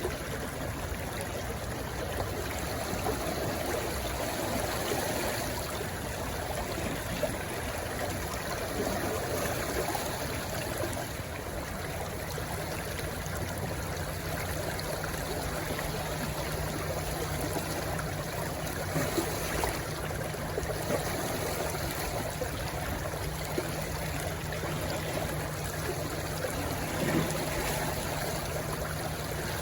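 Small stream rushing and gurgling as it runs into the sea: a steady wash of water.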